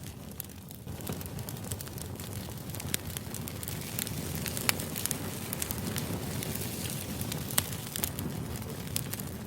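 Crackling fire ambience: a steady low rumble with scattered sharp pops every second or two.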